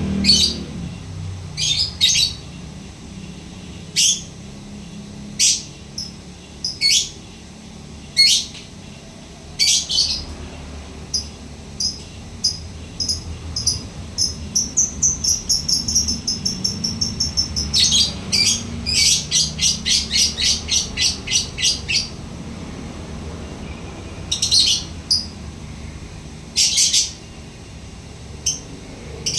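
Lovebird calling: sharp, high chirps a second or two apart, then from about ten seconds in a long run of rapid repeated calls, about twelve seconds long and quickening before it stops, the drawn-out 'ngekek' chatter that lovebird keepers breed and train for.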